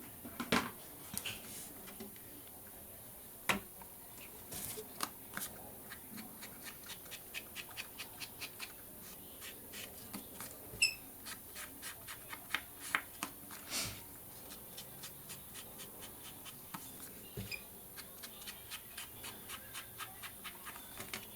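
Scissors snipping paper in quick small cuts: runs of light clicks at about four a second, with a few louder knocks and a brief high chirp about halfway.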